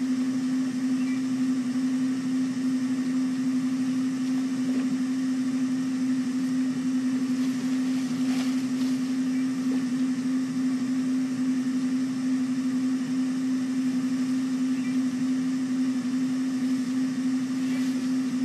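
A steady hum at one constant pitch over a faint hiss, unchanging throughout.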